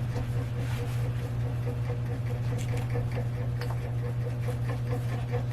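Steady low hum with light rustling and scattered small ticks.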